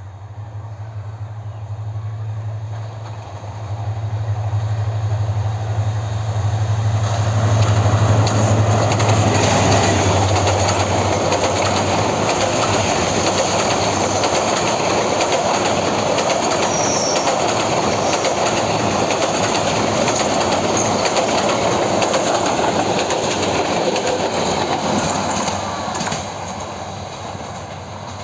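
Bangladesh Railway Hyundai Rotem-built diesel-electric locomotive approaching with its engine humming, growing louder, then the passenger coaches rolling past with a steady rumble of wheels on rails. The sound drops off a couple of seconds before the end as the train moves away.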